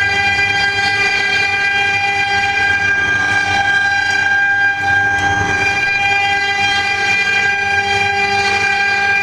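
Double-spindle CNC wood lathe running and turning wood: a steady, high-pitched machine whine over a constant rushing noise, with a brief dip about halfway through.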